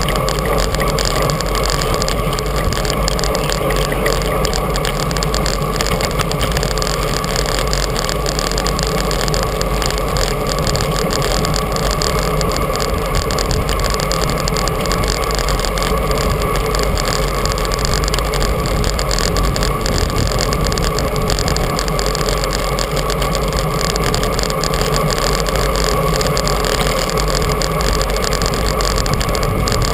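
Steady rumble of wind and road noise from travelling at speed, unbroken and even in level.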